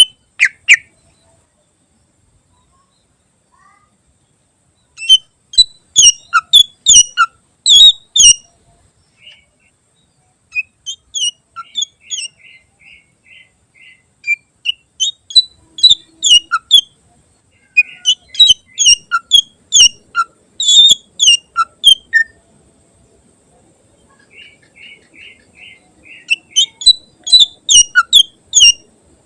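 Cucak ijo (green leafbird) singing: volleys of sharp, rapid high chirps and short fast trills, broken by pauses, with a long gap in the first few seconds. This is a varied song with 'isian', phrases the bird has learned from other species.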